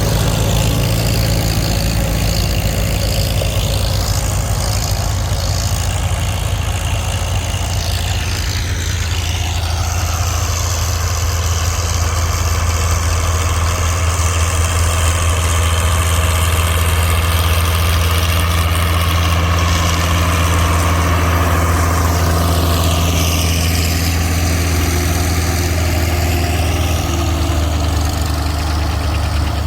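Tractor engine running steadily under load, a low, even drone.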